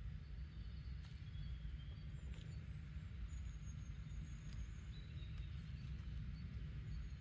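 Garden ambience: a steady low rumble with faint, thin, high-pitched chirps and short whistles from small birds scattered through it, plus a few faint clicks.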